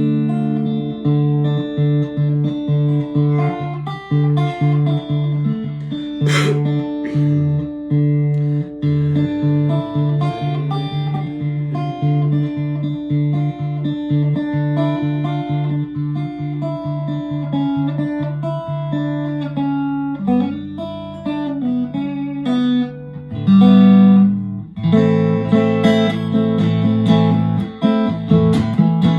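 Fender USA Stratocaster electric guitar, freshly set up, being played: a steady picked pattern of bass notes and chords at about two strokes a second, turning to louder strummed chords about two-thirds of the way through.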